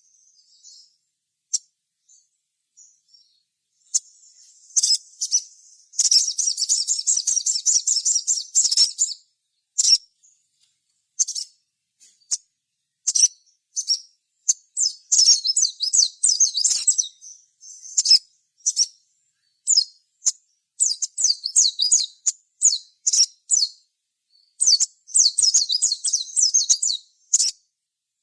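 Little spiderhunter (sogok ontong) singing in sharp, high-pitched chirps. These are broken by several long runs of rapid chattering notes, the first about six seconds in, with a short quiet spell near the start.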